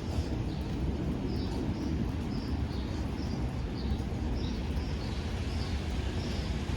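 A small bird chirping, short high chirps about two a second, over a steady low background noise.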